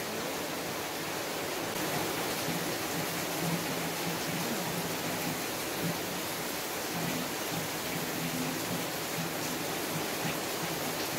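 Steady rain falling, heard as an even hiss on a phone's microphones.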